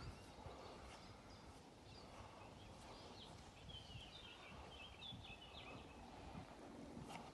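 Faint outdoor ambience: a small bird chirping in a quick run of short notes for a couple of seconds near the middle, over a low, even rumble of background noise.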